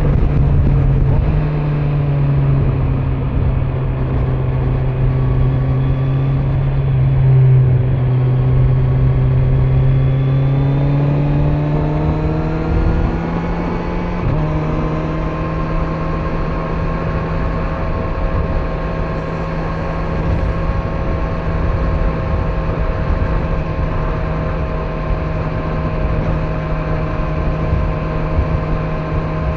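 Kawasaki Z900's inline-four engine on the move, over road and wind noise. The engine note climbs slowly and shifts abruptly about halfway through, then holds steady at a cruise.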